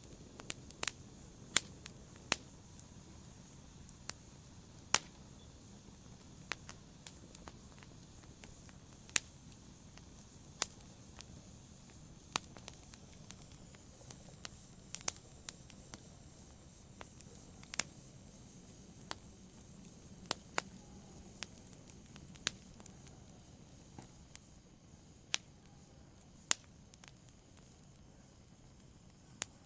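Wood fire in a fireplace crackling: burning logs give off sharp, irregular pops, roughly one a second and some much louder than others, over the soft steady rush of the flames.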